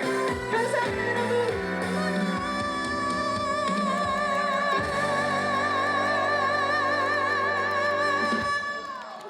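A female trot singer holding a long final note with a wide, even vibrato over the backing accompaniment. The song ends with the note and chords cutting off shortly before the end.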